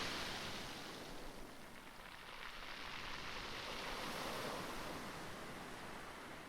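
Rushing of sea waves with wind. It fades over the first two seconds, swells a little about four seconds in, then eases again.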